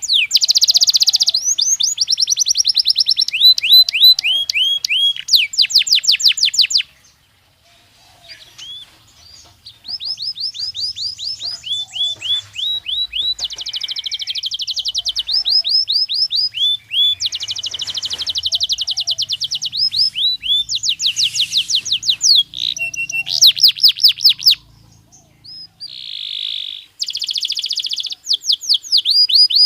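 A Belgian canary singing: rapid trills of repeated falling notes and buzzy rolls, with short pauses between phrases and one longer pause about a quarter of the way in.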